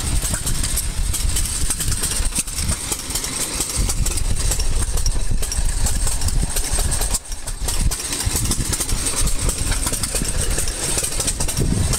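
An engine idling steadily, with a brief drop in level about seven seconds in.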